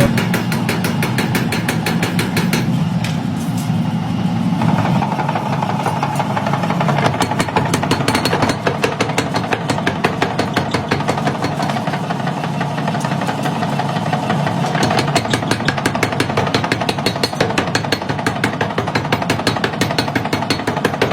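Heavy factory machinery running with a rapid, steady train of knocks, like a power hammer or pneumatic tool at work.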